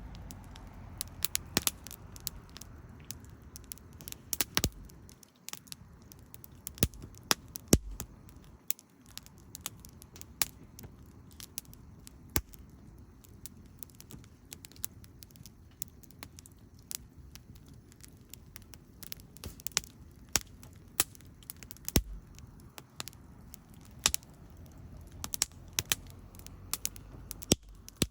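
Wood fire crackling, with irregular sharp pops at varying loudness over a low background rumble.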